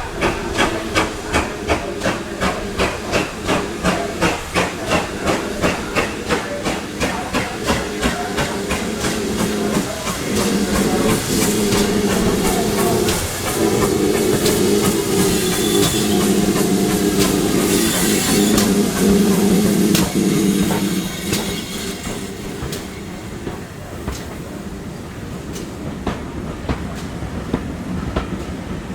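Steam locomotive working past with an even exhaust beat, about two or three chuffs a second. After about ten seconds this gives way to a steady, louder rumble and hiss as the train rolls by, fading over the last few seconds.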